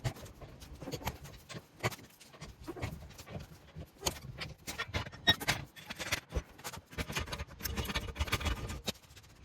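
Irregular clicks, knocks and light clatter, several a second, of hands and tools at work on a car.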